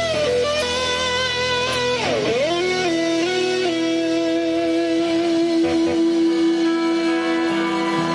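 Live band music led by an electric guitar holding long sustained notes, with a swooping dip in pitch and back up about two seconds in, over steady low bass notes.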